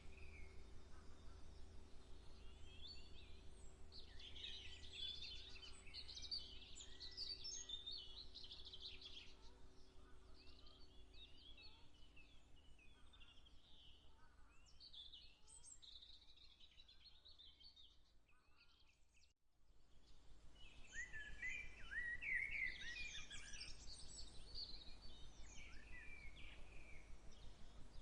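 Several small songbirds chirping and warbling over a steady low rumble. The sound drops away briefly about two-thirds of the way through, then the birdsong returns louder.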